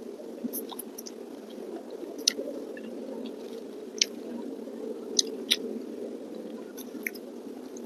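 Close-miked chewing of a mouthful of food, with sharp short crunching clicks every second or so over a steady low background rumble.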